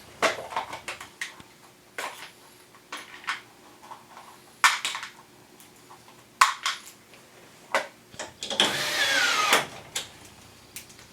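Scattered sharp clicks and knocks of air-conditioner parts being handled during disassembly. Near the end, an electric screwdriver runs for about a second, its whine falling in pitch.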